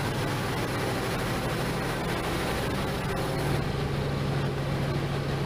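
Passenger train running at a station platform: a steady low engine hum over even rumbling noise, the hum growing stronger about three and a half seconds in.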